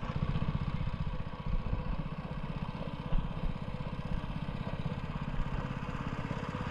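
Small motor of a hookah dive air compressor running steadily, a fast even low pulsing.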